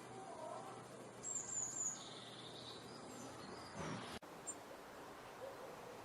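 Small songbirds chirping over a steady hiss: a quick run of three high chirps about a second in, followed by a lower warbling note. The background changes abruptly about four seconds in.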